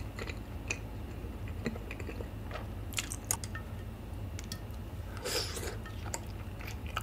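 Close-miked chewing of a mouthful of tteokbokki (soft, chewy rice cakes in sauce), with scattered small wet mouth clicks over a low steady hum. A brief wet squelch comes about five seconds in, as chopsticks work in the saucy rice cakes.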